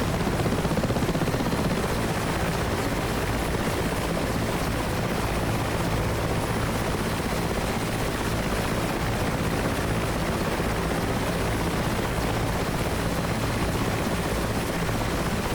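Mil Mi-8 helicopter running steadily, its twin turbine engines and rotor making a dense, even noise. The noise cuts off abruptly at the end.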